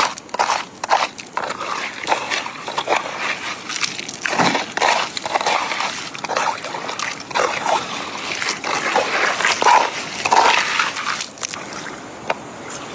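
Water sloshing and splashing, with irregular knocks and clatters.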